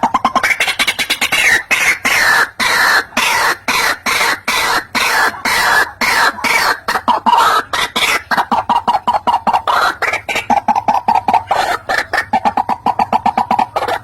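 White-breasted waterhen calling, a lure-call recording: a long run of harsh, croaking notes repeated several times a second. About halfway through, the notes turn into a faster, more even chatter.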